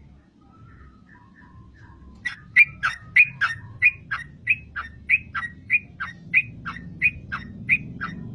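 Yellow-vented bulbul (trucukan) singing: a few soft notes, then from about two seconds in a fast run of loud, sharp, repeated notes, two to three a second. A low hum runs underneath.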